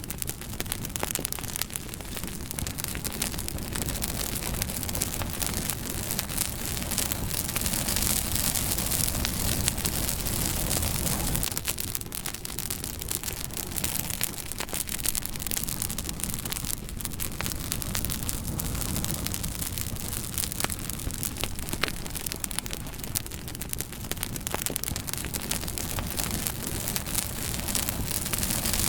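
Wood campfire crackling, with many quick sharp pops and snaps over a steady hiss and low rumble.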